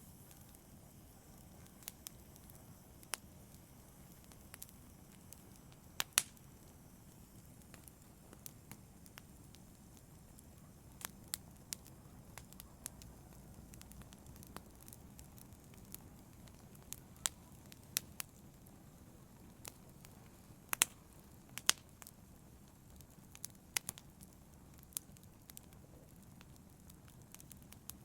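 Wood fire burning in a fireplace: a low steady rumble of the flames with irregular sharp crackles and pops, the loudest about six seconds in and around twenty-one seconds.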